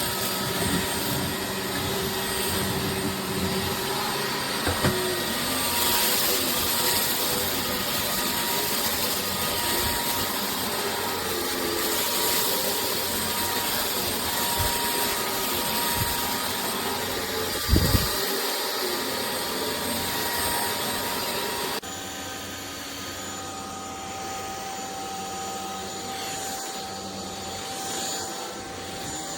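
Cordless stick vacuum cleaner running steadily: a motor whine over a rush of air, with a loud thump about two-thirds of the way through. A little later it turns quieter and its pitch changes.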